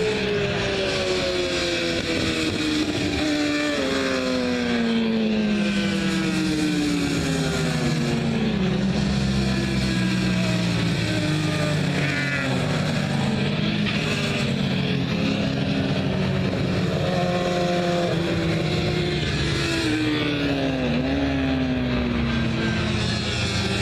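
Sportbike engines running hard on a racetrack. The pitch slides down over several seconds and jumps back up several times as the riders work the throttle and gears, over a steady rush of noise.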